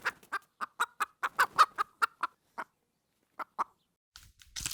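Hen clucking: a quick run of short clucks that thins out about two and a half seconds in, with two more about a second later.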